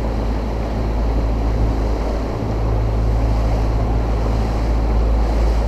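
New Mercury outboard motor running at moderate throttle during its break-in as the boat moves over the water, with wind buffeting the microphone. The engine sound builds slightly over the first few seconds and then holds steady.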